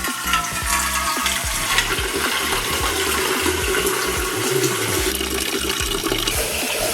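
Water running steadily from a tap into a cooking pot, filling it.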